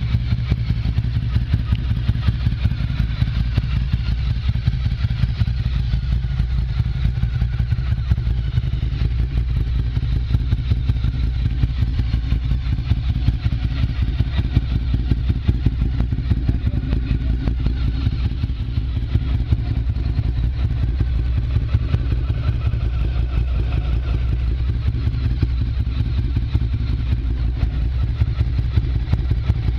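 Ducati Monster 1100 EVO's air-cooled L-twin engine running steadily at idle through a full Termignoni exhaust, with a fast, even pulsing beat.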